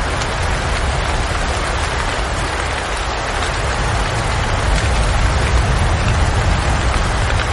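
Steady rain, an even hiss with a low rumble beneath it and no breaks.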